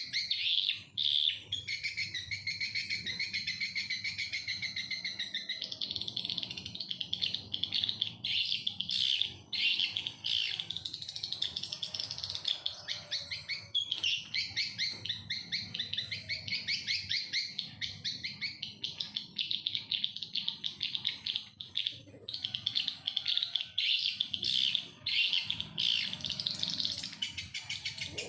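Small birds chirping in a fast, dense, unbroken run of high calls.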